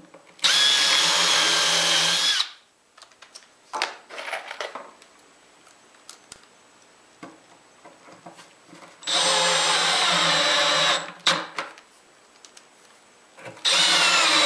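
Cordless drill driving screws into plywood: three steady whining runs of about two seconds each, with small clicks and knocks of handling between them.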